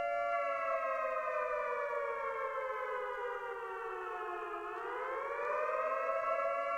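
Siren-like wailing tone of two close pitches that holds steady, slides slowly down for about four seconds, then rises back to its starting pitch.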